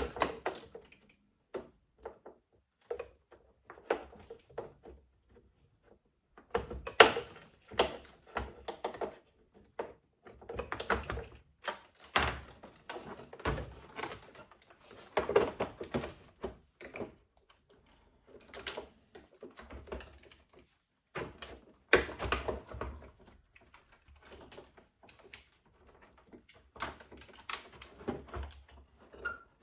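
Irregular clicks, knocks and rattles of hard plastic machine parts and tools being handled and set down, as in taking apart a coffee machine. The louder knocks fall about 7, 15 and 22 seconds in.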